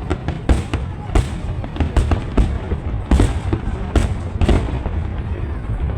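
Fireworks going off in quick, irregular succession: sharp bangs and crackles several times a second over a steady low rumble.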